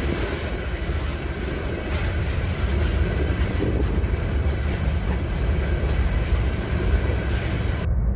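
Diesel freight trains and locomotives running in a large rail yard: a steady, heavy low rumble with a thin steady high tone above it.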